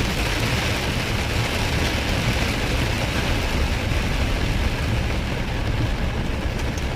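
Steady noise inside a moving vehicle in heavy rain: rain hitting the vehicle and wet tyre hiss over a low road and engine rumble.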